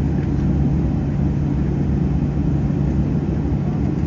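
Steady cabin rumble inside a Boeing 737-800, with a low hum from its running engines and cabin systems.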